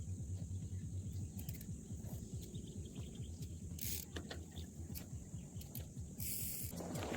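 Fluttering low rumble of wind on the microphone, over a steady high-pitched insect chorus. Brief hissing swishes come about four seconds in and again near the end.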